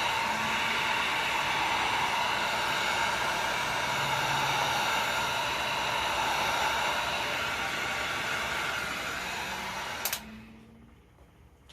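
Heat gun blowing steadily, then switched off with a click about ten seconds in.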